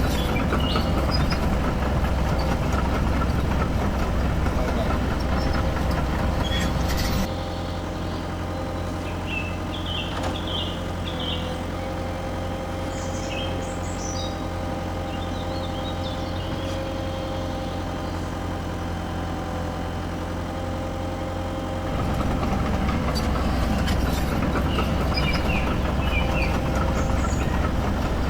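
Simulated diesel engine sound from a Huina RC excavator's speaker, a steady drone. It drops to a quieter, even idle about seven seconds in and picks back up about 22 seconds in, with a few short high chirps on top.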